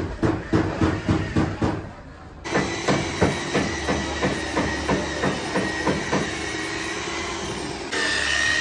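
Rapid hammer blows on car body sheet metal, about four a second, pausing briefly about two seconds in and stopping around six seconds in, over a steady workshop hum.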